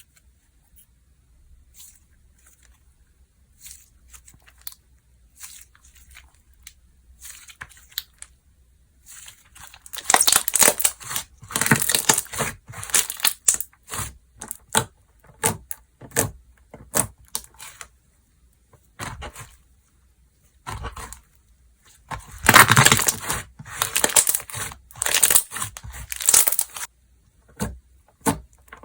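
Slime being handled: quiet scattered clicks at first, then two spells of loud, dense sticky crackling and popping as it is stretched and pressed.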